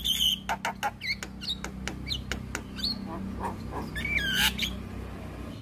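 Javan myna calling: a fast, irregular string of sharp clicks and harsh notes mixed with short whistled glides, with a falling whistle about four seconds in. A steady low hum runs underneath.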